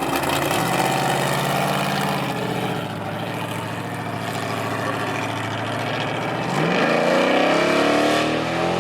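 A car engine running at a low, steady speed, then accelerating hard from about six and a half seconds in, its exhaust note climbing steadily in pitch.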